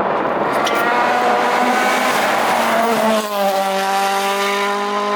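A World Rally Car's turbocharged four-cylinder engine at full throttle, its pitch rising over the first few seconds. About three seconds in it dips briefly, then holds a steady high note, with some tyre squeal.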